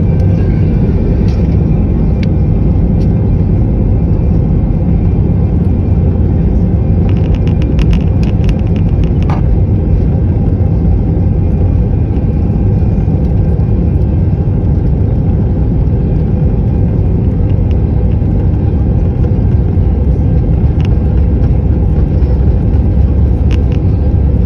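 Airbus A319 on its takeoff run, heard from inside the cabin: a loud, steady rumble of the jet engines and the aircraft rolling down the runway. A short flurry of clicks or rattles comes about a third of the way in.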